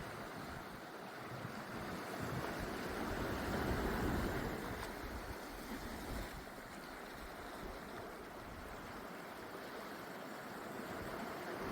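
Small sea waves breaking and washing up on a beach. The surf swells to its loudest about four seconds in, eases off, and builds again near the end.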